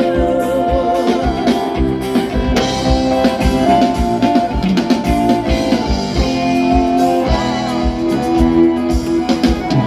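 Live sertanejo band playing an instrumental passage: guitar lines over a steady drum-kit beat, with no singing.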